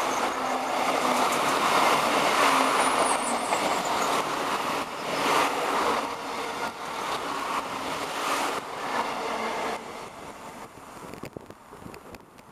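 Irish Rail 29000 class diesel multiple unit running past, a steady rolling noise with occasional knocks from the wheels and a brief faint high squeal early on. About ten seconds in the sound drops sharply and fades as the train moves away.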